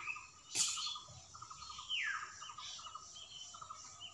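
Birds calling faintly in the background: a short rapid trill repeated every second or so, and one falling call about two seconds in. A brief rustle comes about half a second in.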